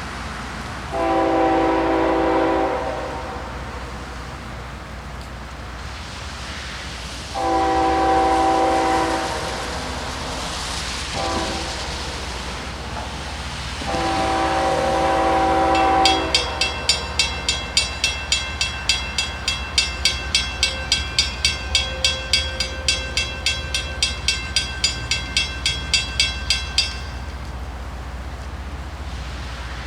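Freight locomotive air horn sounding the grade-crossing signal: two long blasts, a short one and a final long one. Right after, a bell rings rapidly, about three strikes a second, for about ten seconds and then stops, over the low rumble of the train.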